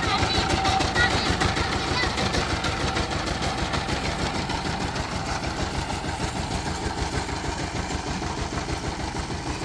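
Diesel engine running steadily with a fast, even knocking beat.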